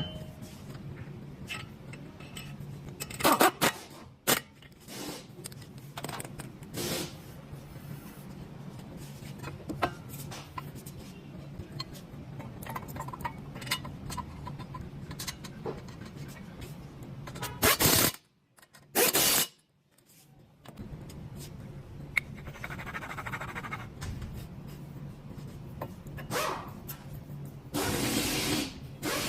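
Scattered knocks and scrapes of metal tools and parts over a steady low hum, typical of hand work on a car's brake disc and pads.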